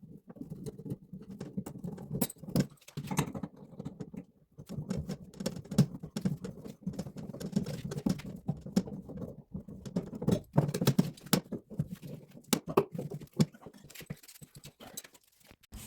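Rapid, irregular tapping and clattering of small hard objects being handled, a dense patter of light knocks and clicks with a short pause near the end.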